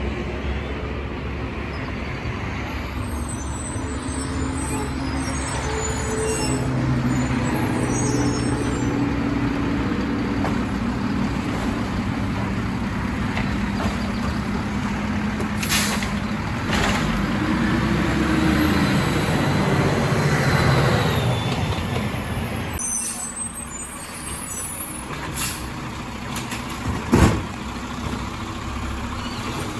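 Garbage truck engine running steadily. Partway through, a whine rises and falls, and the truck gets quieter afterward. A few short, sharp bursts are heard, the loudest near the end.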